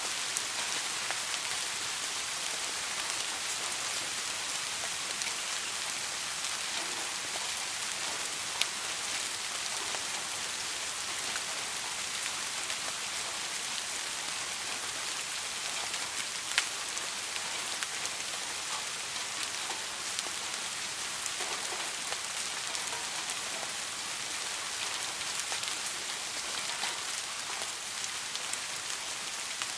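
Soft rain falling steadily, an even hiss of drops on a surface, with two sharper drop ticks standing out about a third and halfway through.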